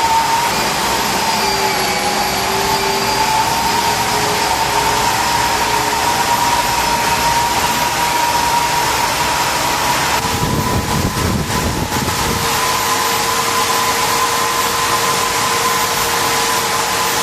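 CNC lathe running during a turning job: a steady high whine over machine noise. About ten seconds in there is a short rumble, and a second, lower whine joins.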